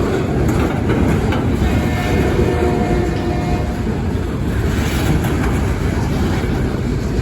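Freight cars of a local freight train rolling past, a steady loud rumble of steel wheels on rail with scattered clicks.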